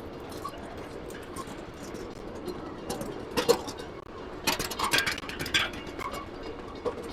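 Ride-on miniature railway train rolling along its track with a steady low rumble. Runs of sharp clicks and clacks from the wheels on the rails come about three seconds in and again around five seconds.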